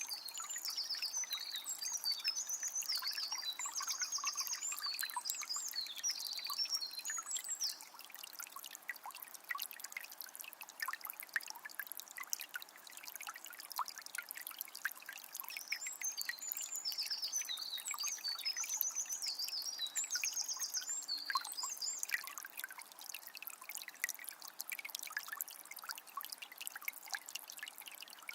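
Small spring's water trickling and splashing steadily. A bird sings twice over it, a long, high song of chirps and trills lasting several seconds each time: once at the start and again a little past the middle.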